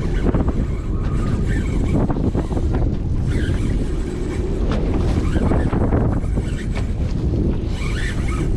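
Strong wind buffeting the microphone, a steady loud rumble, over the wash of waves around the boat.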